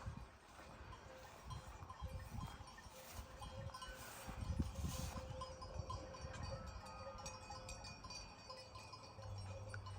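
Faint tinkling of small bells over quiet outdoor ambience, with scattered low knocks.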